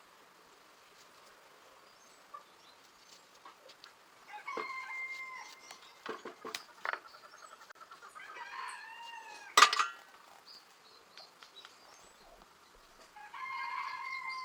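Chickens calling, with a rooster crowing: three drawn-out calls, a few seconds in, in the middle and near the end. Scattered clicks accompany them, and a sharp knock about two-thirds through is the loudest sound.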